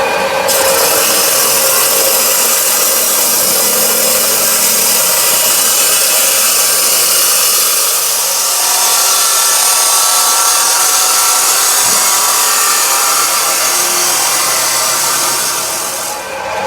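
Power tool working on steel, a loud steady hissing rasp that dies away about 16 seconds in.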